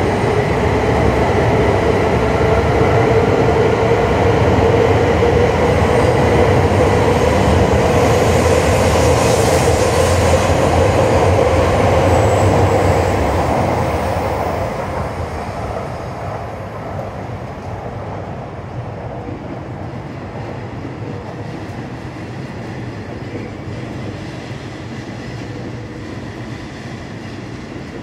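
E5 series shinkansen train pulling out and accelerating past, a loud steady running noise with a clear whine that rises slightly in pitch. About halfway through, the last car goes by and the sound dies away over a few seconds to a low background hum.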